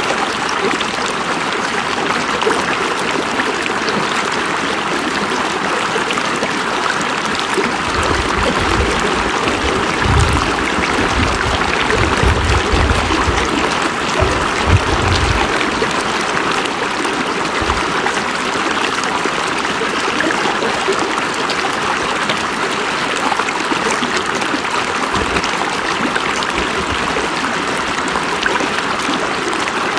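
River water flowing steadily with a constant rushing sound. From about a quarter of the way in to about halfway there are several bouts of low rumble underneath.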